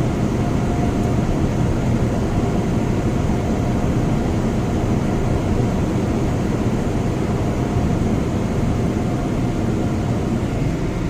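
Car wash air dryer blowers running, a loud steady rush of air with a faint steady whine, heard from inside the car.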